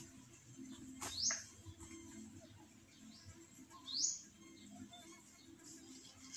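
A bird chirps three times, short high whistles that fall in pitch. Right at the end comes a sharp chop as the blade strikes a coconut.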